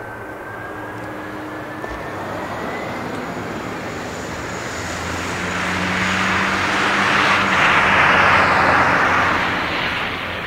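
Boeing 747-400 jet airliner's four Rolls-Royce RB211 turbofans passing close by, a rising fan whine over a broad jet rumble that builds to its loudest about eight seconds in, then starts to fade.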